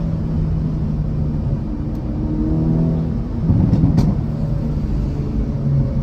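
Hyundai Avante N's turbocharged four-cylinder exhaust note, engine running at steady revs, with a burst of popping crackles from the exhaust, the 'popcorn' overrun pops, about three and a half seconds in.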